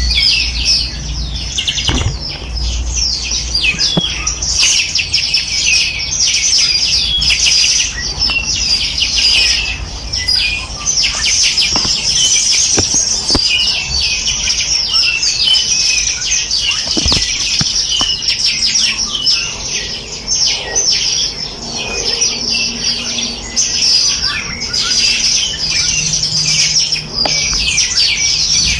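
Chorus of many small songbirds chirping and trilling at once, a dense, continuous tangle of quick high-pitched notes with no pause.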